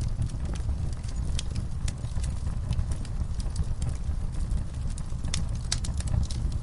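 Wood fire burning in a fireplace: a low steady rumble of flames with scattered sharp crackles and pops, a quick cluster of them about five to six seconds in.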